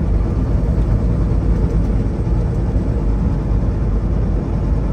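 Semi truck driving: a steady low rumble of engine and road noise.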